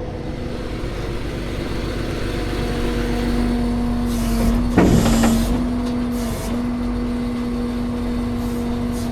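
Interstate traffic rushing past, with one vehicle passing close about five seconds in. Under it runs a steady droning hum that starts a few seconds in and breaks off briefly past the six-second mark.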